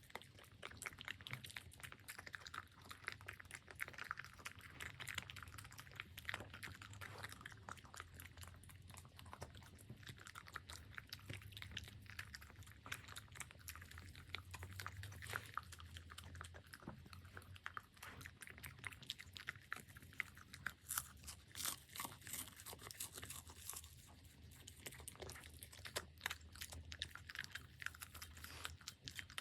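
A puppy eating from its bowl, chewing its food with many quick, irregular small clicks.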